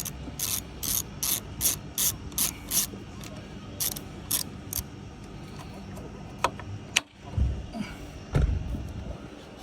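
Screwdriver ratcheting in short runs of sharp clicks, about three a second, as small screws are driven into the lid of an engine tuning box, followed by a sharp click and a couple of dull knocks near the end.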